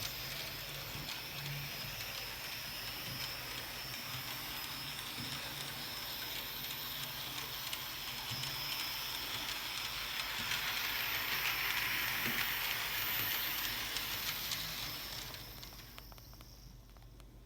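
Märklin model German Class 74 tank locomotive and its cars running in reverse on the track: a steady whirring hiss from the motor and wheels with a thin high whine and faint ticks, louder in the middle and fading out near the end. The locomotive has no built-in sound effects, so only its running noise is heard.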